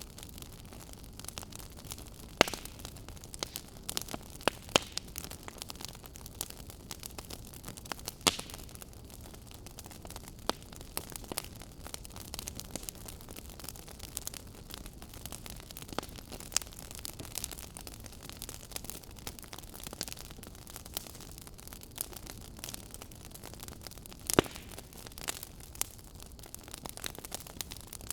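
Wood fire burning in a fireplace, crackling with irregular sharp pops over a steady low hiss.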